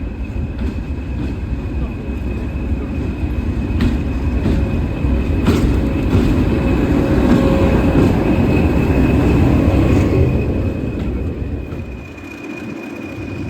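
Heritage railway train running close by. Its rumble builds to a peak about seven to ten seconds in, then falls away near the end, with a few sharp clicks along the way.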